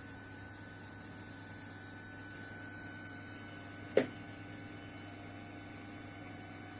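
Steady electrical whine and hum from the stepper motors of a 3D-printed five-axis robot arm, with a single sharp click about four seconds in.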